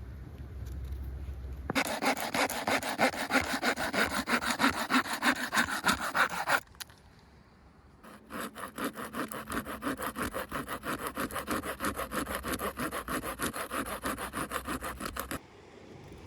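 Hand saw cutting through wood in quick, even back-and-forth strokes. It comes in two bouts with a short pause between them, and the second bout is the longer.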